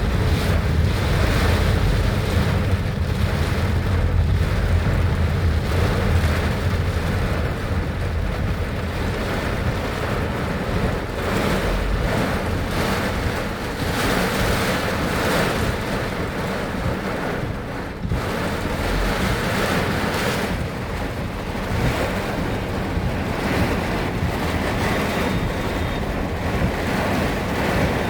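Heavy rain and strong wind, with gusts buffeting the microphone: a steady rushing noise that swells and eases slightly.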